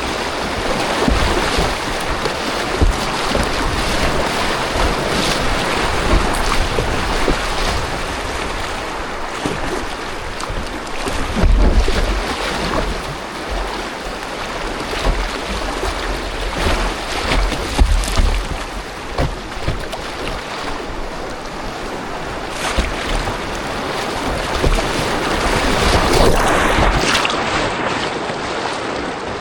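Water rushing and splashing around a kayak on a river, with wind gusting on the microphone in low rumbles.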